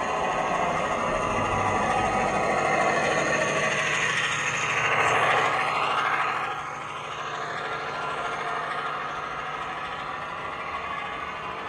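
A train engine running and passing by. It grows louder to a peak about five to six seconds in, with its pitch sweeping through the pass, then drops away to a steadier, quieter run.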